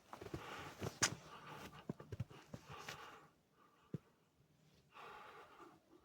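A person breathing audibly while walking, one breath about every two seconds, with short crunching steps and clicks in between, typical of footsteps in snow.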